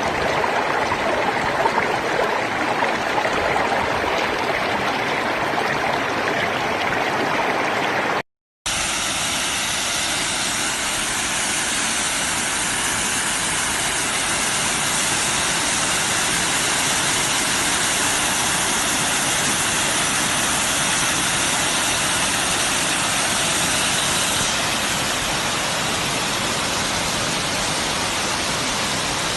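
Steady rush of flowing water, like a stream or waterfall, cut off for a moment about eight seconds in and then resuming as a smoother, even rush.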